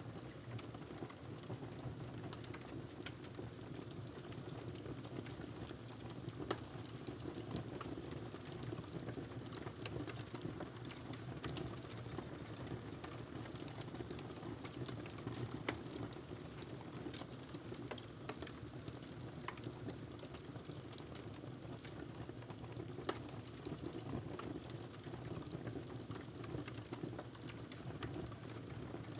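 Wood fire crackling in a fireplace: a steady low rush of flame with irregular small crackles and a few sharper pops.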